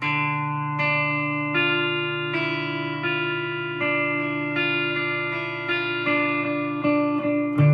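Guitar playing a slow melody, single plucked notes about every three-quarters of a second, over a low note that keeps ringing underneath.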